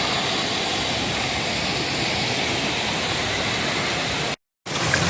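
Waterfall: the steady, even rush of falling water. Near the end it drops out completely for a split second, then returns.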